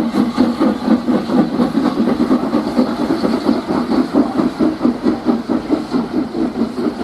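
Steam locomotive's exhaust beats, a fast, even run of chuffs.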